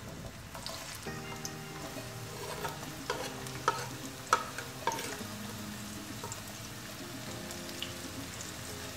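Chopped onion and crushed garlic sizzling as they land in hot sunflower oil in a frying pan. A knife scraping and tapping gives four sharp knocks around the middle. Soft background music comes in about a second in.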